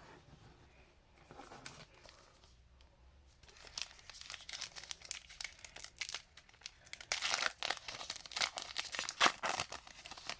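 Plastic trading-card pack wrapper being crinkled and torn open: a dense crackling that starts a few seconds in and grows louder toward the end.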